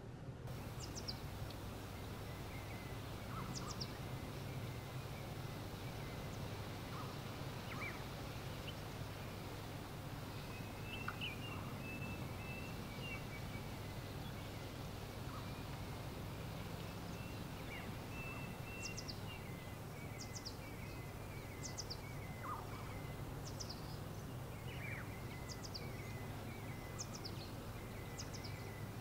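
Birds chirping: short, high, falling chirps repeated every second or two, over a steady low hum and hiss of background noise.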